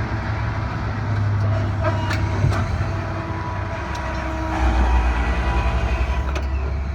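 Large diesel truck engine idling with a steady low rumble. About two-thirds of the way through it grows louder and takes on an even pulse, with a few light knocks over it.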